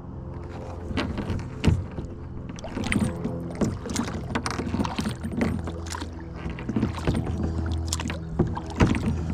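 Kayak paddling: the paddle blades dip and splash in the water in irregular strokes, a couple of them louder than the rest, over a steady low hum.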